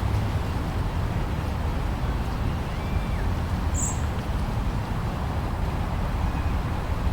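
Steady low blizzard wind, a constant rumbling rush of noise with no let-up, and a brief high chirp about four seconds in.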